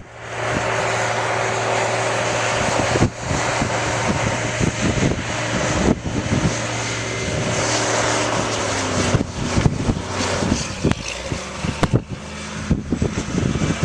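A vehicle engine running steadily under a noisy haze, with scattered knocks and clanks that grow more frequent in the second half.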